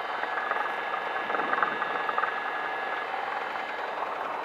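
Cessna 172's piston engine idling, a steady drone heard inside the cabin.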